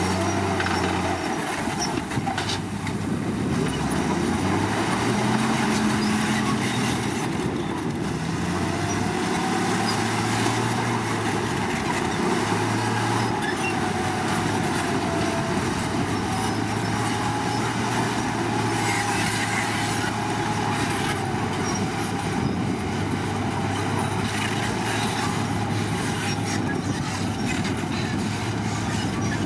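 Komatsu D53 crawler bulldozer running, its diesel engine droning steadily while the steel tracks clank. A thin wavering squeal rises from the undercarriage for much of the time.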